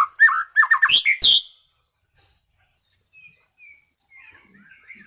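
White-rumped shama (murai medan) singing: a quick run of loud, sharp whistled notes and rising sweeps that stops about a second and a half in, followed by soft, scattered twittering notes.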